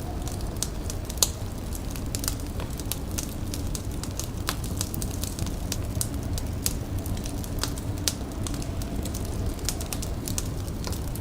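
Indoor fire crackling: irregular sharp pops and snaps over a steady low rumble, with one louder pop about a second in.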